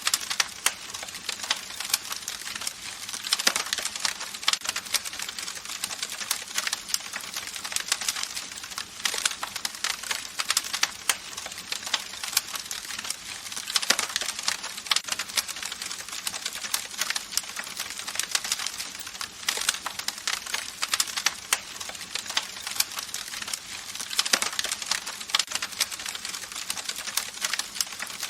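Campfire crackling: a dense, irregular run of sharp pops and snaps over a steady hiss of burning wood.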